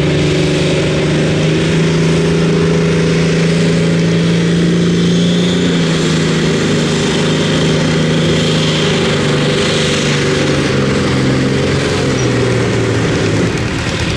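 Competition pulling tractor's engine running loud and steady at high revs during a pull, its pitch holding nearly level, then easing and getting quieter near the end.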